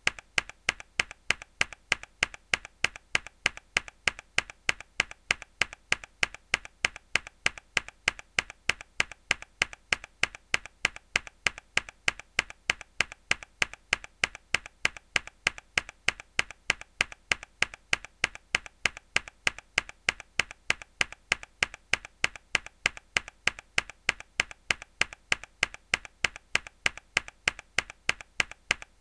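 A hard key press on a mechanical keyboard: the same sharp keystroke click repeated at an even pace, a few times a second.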